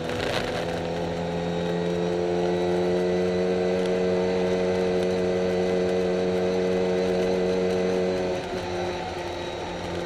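In-car sound of a classic Mini race car's A-series four-cylinder engine pulling hard, its note rising slowly, then dropping away near the end as the throttle comes off; a short burst of noise sits at the very start. The car is running down on power.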